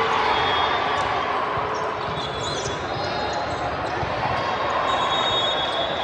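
Volleyball match sounds on a court: a ball thudding amid a steady hubbub of players' and spectators' voices.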